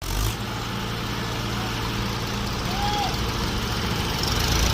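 Tractor diesel engine running steadily, getting slightly louder toward the end.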